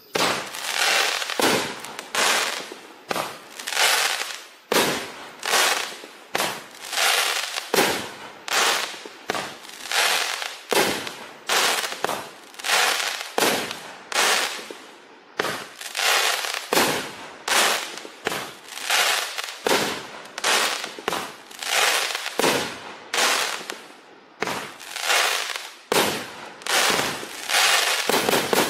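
Shogun 'Snap, Crackle, Pop' (LBM-201) 12-shot consumer fireworks cake firing: shots going up one after another, each breaking into a burst of crackling, about one burst a second.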